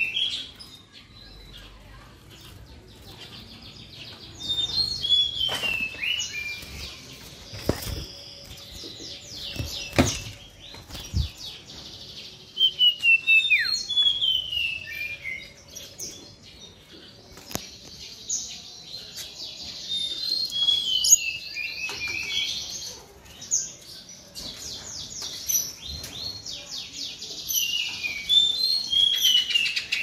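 Small cage birds in an aviary chirping and calling, with many short down-sweeping calls and fast rattling trills, busiest near the end. A few sharp knocks sound around a third of the way in.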